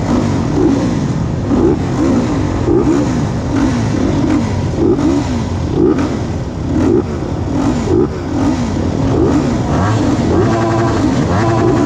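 Motocross motorcycle engines revving, the pitch rising and falling over and over about once a second, with a steadier engine note near the end.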